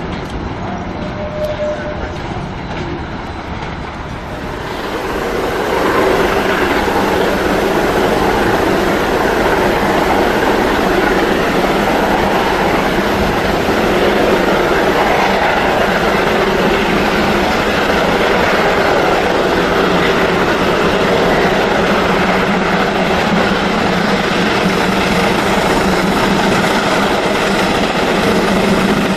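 Narrow-gauge train wheels running on the track, heard from an open passenger car. About five seconds in, a louder, steady rushing noise takes over and holds level.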